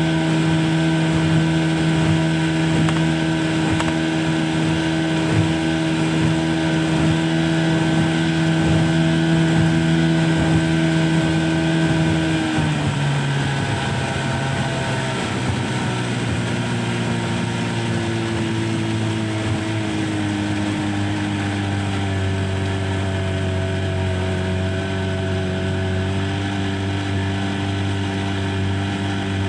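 An engine running at a steady speed, then dropping to a lower speed about twelve seconds in and settling there.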